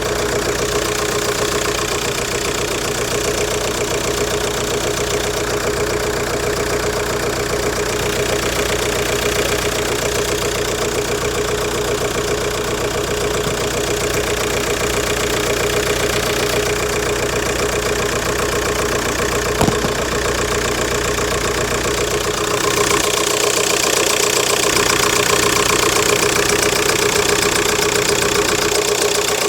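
VW Golf Mk4 1.9 TDI four-cylinder diesel engine idling with a knocking noise that the owner takes to come from the valves. About 23 seconds in the sound turns brighter and thinner.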